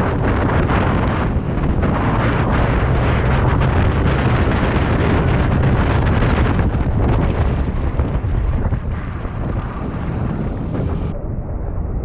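Loud, steady wind buffeting on the microphone during a scooter ride, with a low rumble underneath; the sound turns duller about eleven seconds in.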